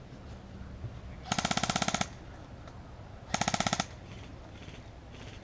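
Airsoft electric rifle firing two full-auto bursts, a rapid even rattle of shots at roughly fifteen a second: the first lasts under a second, the second, about two seconds later, is shorter.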